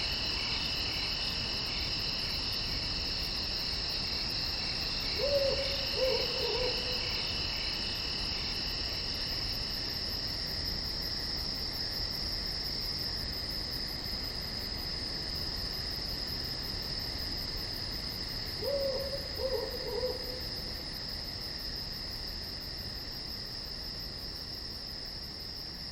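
Night crickets chirring steadily in several high, overlapping pitches. Twice, about 5 and 19 seconds in, an animal gives a short hooting call of a few quick, falling notes.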